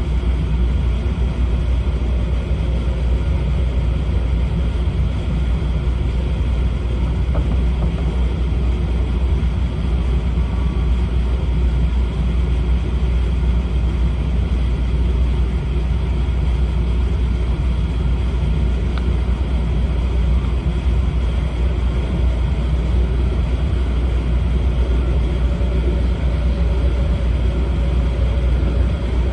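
Steady low rumble of an E4 series Shinkansen running, heard from inside the passenger car.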